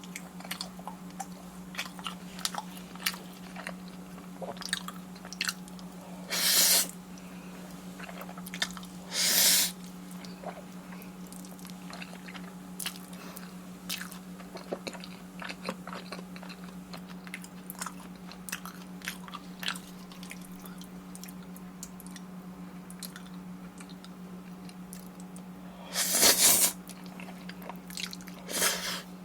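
Close-miked eating sounds, made up of many small wet chewing and mouth clicks. Four louder, short rushes of noise come about six seconds in, nine seconds in, and twice near the end. A steady low hum runs underneath.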